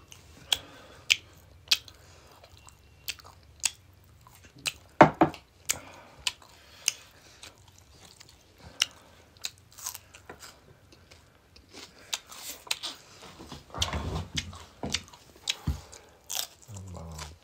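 Close-miked eating: crunching bites and chewing, in sharp irregular crunches, the loudest about five seconds in and a busier stretch near the end.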